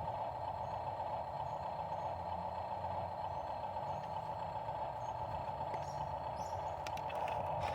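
Dump truck engine running steadily, with a few light clicks near the end.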